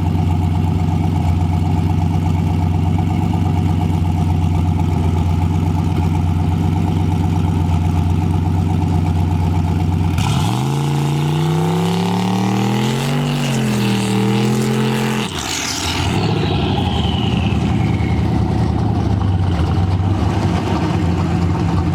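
Turbocharged LS V8 holding a steady tone, then accelerating hard for about five seconds with rising pitch and a couple of dips. It lifts off sharply about fifteen seconds in, followed by a falling high whine as the turbo spools down, then settles back to a steady run.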